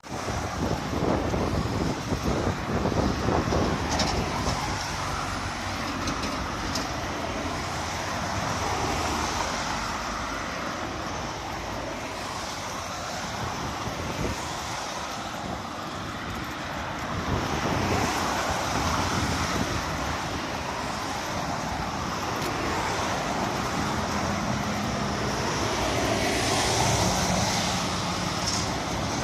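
Road traffic noise: motor vehicles running, a steady mix of engine and tyre noise without pause.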